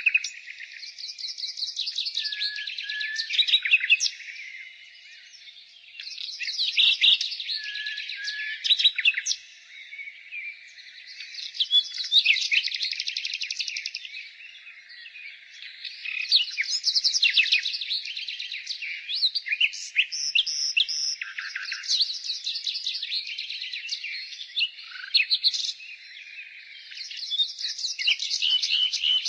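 Nightingale singing: a run of phrases of rapid trills and repeated notes, each a few seconds long, with short pauses between them.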